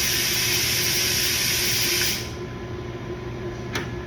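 A steady hiss, like air or spray under pressure, that cuts off suddenly about two seconds in, followed by a single sharp click near the end.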